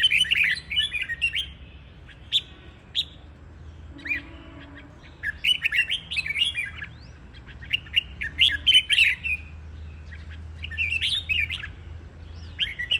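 Red-whiskered bulbuls singing: bursts of quick, warbling phrases every few seconds, with single short notes between.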